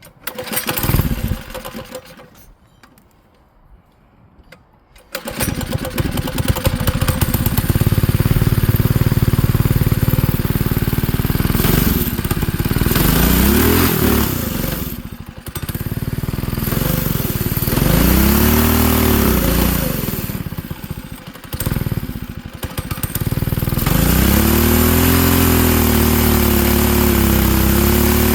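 Manco Streaker mini bike's small engine catching about five seconds in after a short first burst, then running loud and being revved up and down several times.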